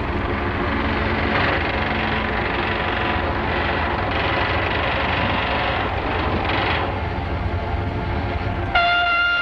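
Steady, dense clatter of railroad shop work on a freight-car production line. Near the end a steady horn or whistle blast starts sharply and is held.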